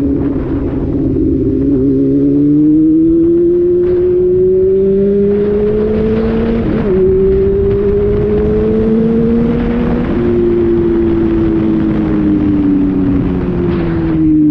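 Honda Hornet 600 motorcycle's inline-four engine under way. Its revs climb, break briefly at two gear changes about 7 and 10 seconds in, then fall steadily as it eases off.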